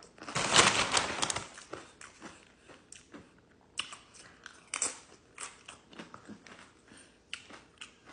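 A person chewing food close to the microphone: a big, loud bite and chew in the first second and a half, then quieter chewing with scattered sharp clicks and smacks.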